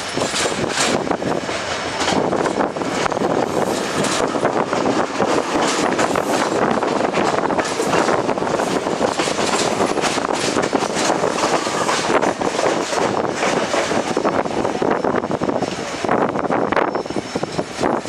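Passenger train of ICF coaches running along the track: a loud, steady rumble full of sharp clicks and rattles from the wheels on the rails.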